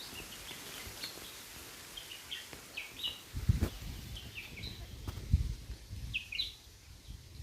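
A small bird giving short chirps again and again, about one every second or so, with a few low thumps from wind or handling on the microphone.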